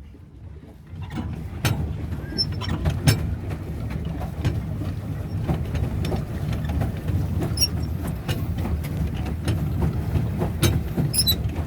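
Duck pedal boat being pedalled: its pedal drive makes a steady low rumble that starts about a second in, with scattered clicks and knocks.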